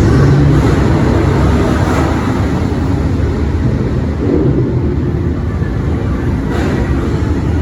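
New York City subway train running through the station: a loud, steady rumble of wheels and traction motors.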